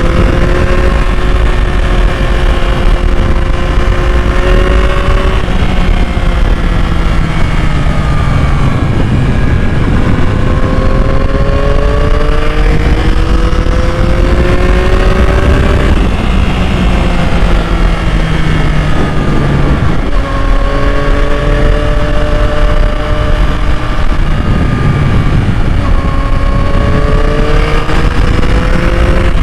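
2021 Yamaha MT-09's inline three-cylinder engine running on the move, its note climbing slowly in pitch and then dropping, several times over, as the bike accelerates and changes gear.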